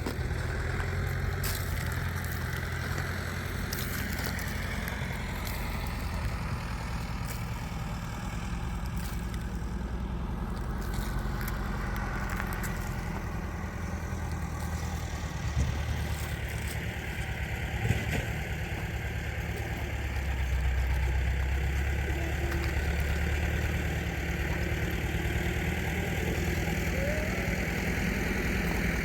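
An engine running steadily at low speed, a low even hum with a couple of short knocks past the middle.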